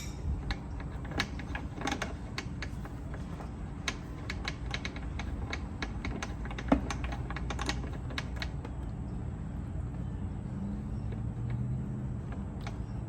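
Irregular light metallic clicks and taps from hand tools working on a Yamaha F300 power trim ram while its seal is being removed. The clicks are dense for the first eight seconds or so and then thin out over a low background hum.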